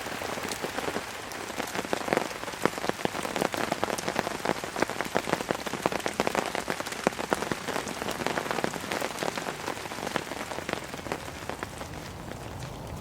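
Heavy rain falling on a camping tarp overhead, a dense patter of separate drop hits on the fabric. Near the end it thins and sounds duller.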